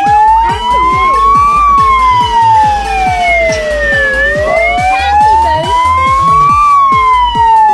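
A siren wailing in slow rises and falls, peaking twice, over background music with a steady beat.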